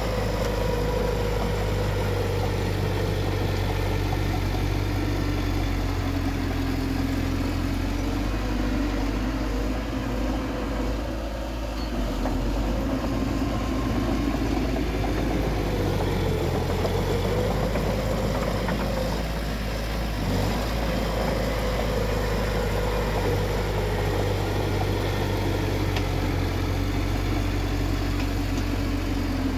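Diesel engine of heavy earthmoving machinery running steadily, its pitch dipping and rising slightly now and then as the load changes.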